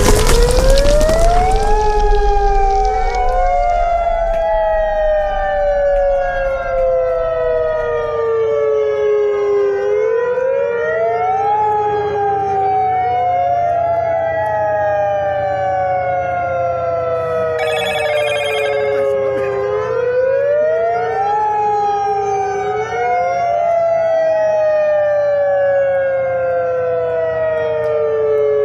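Civil-defence warning siren wailing: each cycle rises quickly, then falls slowly, repeating about every ten seconds, with echoing overlapping copies. This is the tsunami warning siren sound. A loud rumble fades out in the first few seconds.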